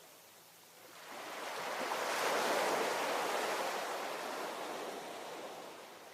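Ocean wave breaking and washing up the shore: a rush of surf that swells about a second in, peaks, and slowly fades away.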